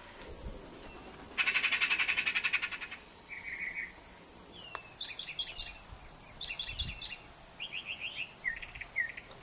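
Small birds singing: a loud, rapid buzzy trill lasting about a second and a half near the start, then repeated quick clusters of three or four short high chirps.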